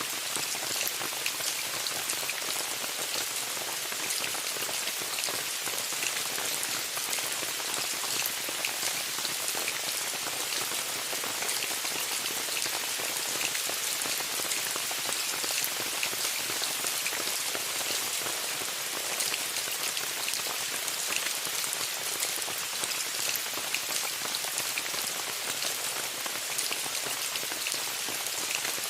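Steady rain pattering on a tent: a dense, even hiss of many fine drop ticks.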